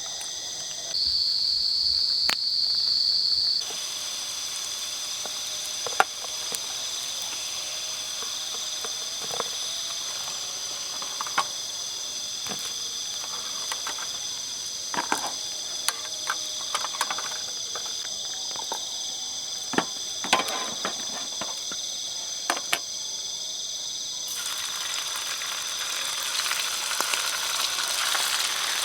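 Forest insects calling: several steady, high-pitched buzzing tones that overlap, one rising louder for a couple of seconds about a second in. Scattered sharp clicks and crackles run through it, and a hiss builds near the end.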